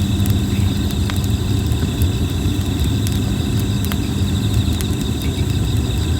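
Red plum (kōbai) wood campfire crackling with a few sharp pops, over a steady low rumble. Insects chirr steadily.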